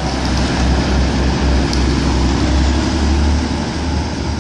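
TransPennine Express diesel multiple-unit train running past on the line below, a steady low engine and wheel rumble.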